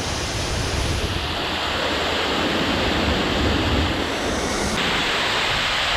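Steady rushing of a waterfall, with a low wind rumble on the microphone that drops away abruptly near the end.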